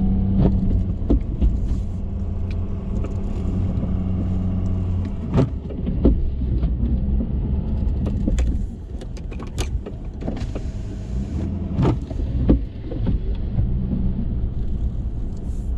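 Ford F-350 pickup engine running steadily while pushing a Boss snow plow, with scattered sharp knocks and clunks throughout.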